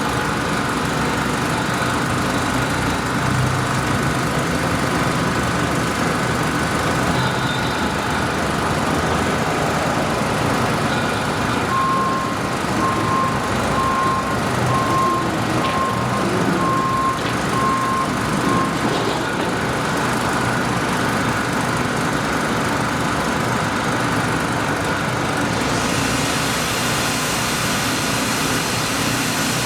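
Steady engine and traffic rumble. Midway a single-tone beep repeats about once a second for several seconds, and a hiss comes up near the end.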